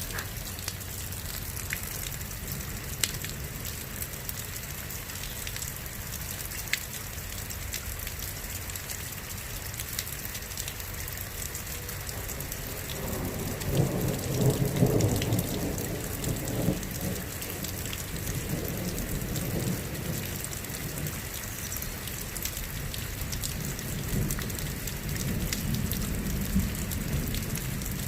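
Steady rain falling, with individual drops ticking. A roll of thunder rumbles for about four seconds near the middle, and a fainter rumble comes near the end.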